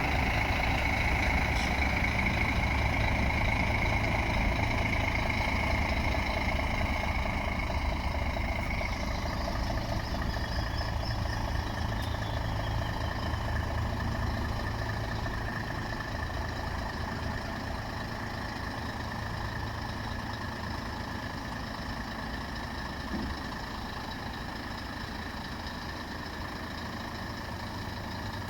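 Scania G420 truck's diesel engine idling steadily, with a high whine over roughly the first eight seconds; the sound gradually grows quieter.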